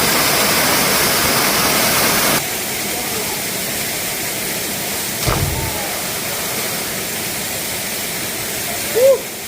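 Steady rushing water of a waterfall. It is louder for the first two seconds or so, then cuts suddenly to a slightly quieter level. A short dull thud comes about halfway through, and a brief chirp near the end.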